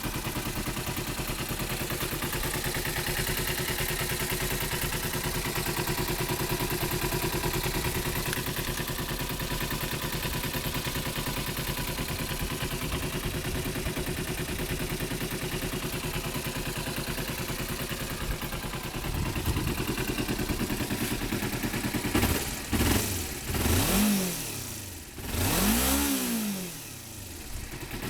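Kawasaki ZZ-R250's parallel-twin engine breathing through a Tsukigi Racing aftermarket exhaust, idling steadily for most of the time, then revved in about three quick throttle blips near the end, the pitch rising and falling each time.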